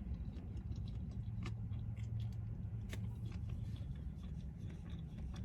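Steady low hum of a car cabin, as from an idling engine, with a few faint clicks of chewing and food handling over it.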